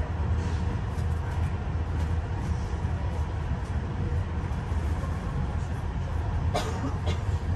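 Passenger train rolling along the track, heard on board: a steady low rumble of wheels on rail. Two sharp clicks come about a second before the end.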